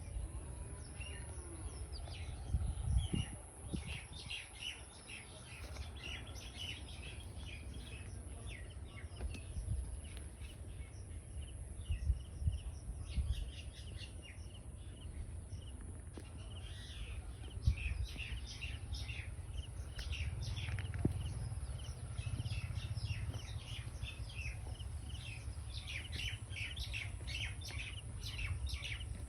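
Birds chirping, many short calls repeating throughout, over a low rumbling background with a few knocks.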